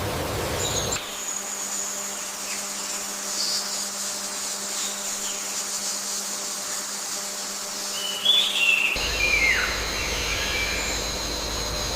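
Outdoor nature ambience: a steady high-pitched drone like insects, with a few short falling bird calls about eight to nine seconds in. The background changes abruptly about a second in and again near nine seconds.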